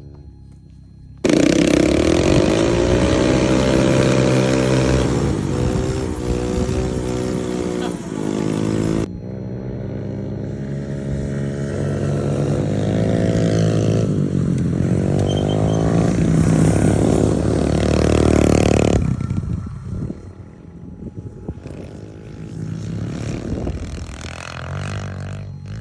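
Small off-road vehicle engine revving and changing speed as it is ridden, its pitch rising and falling. The sound is spliced from separate clips, with abrupt changes about a second in, about nine seconds in, and again after nineteen seconds, where it drops to a quieter running engine.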